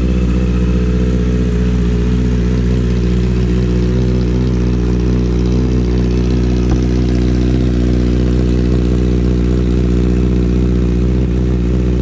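2019 Honda CBR650R's 649 cc inline-four idling steadily through its exhaust, holding an even, unchanging pitch with no revs.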